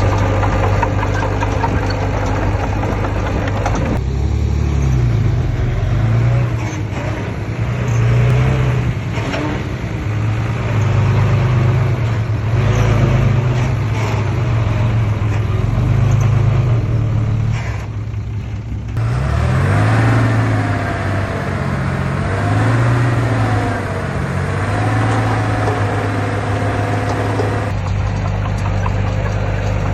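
Diesel engines of heavy earthmoving machines working, the engine pitch rising and falling repeatedly under load. The sound changes abruptly about four seconds in, again past the middle, and near the end.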